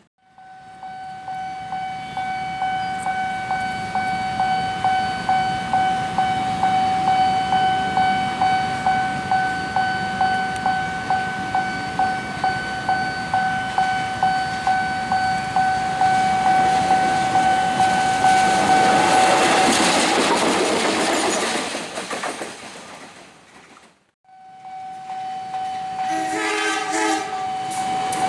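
Railway level-crossing warning bell ringing steadily at about two to three strokes a second, then a train passing with a loud rush of wheel noise. After a short break the bell starts again as more train noise builds near the end.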